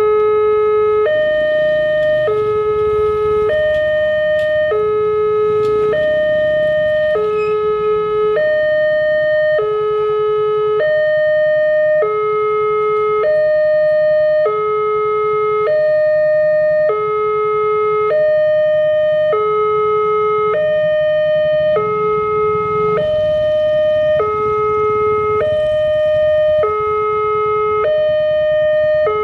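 Railway level-crossing warning alarm sounding: an electronic two-tone signal swapping back and forth between a low and a higher tone about every second, warning that a train is approaching and the barriers are closing.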